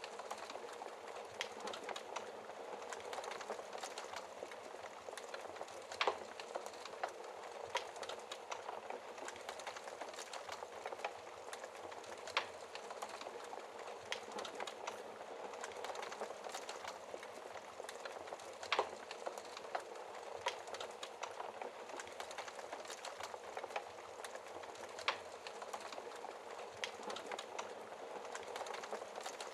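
Wood logs burning in a fireplace: a steady soft hiss of flames with frequent small crackles and a sharper, louder pop every several seconds.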